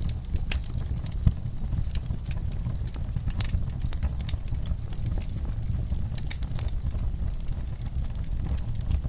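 Fire burning in a fireplace: many irregular sharp crackles and pops over a steady low rumble of the flames.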